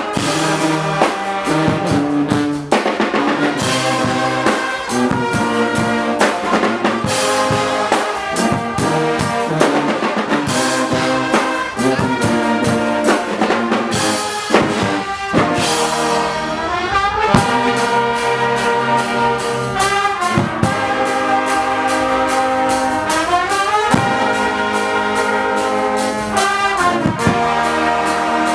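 Guggenmusik brass band playing loudly: trumpets, trombones and sousaphones in rough unison over a pounding carnival drum beat, with big sliding brass glissandos after the middle and again near the end.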